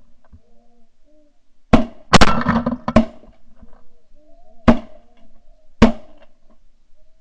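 Shotgun fire: a quick run of three shots, then two more single shots a second or so apart. Faint goose honking continues underneath.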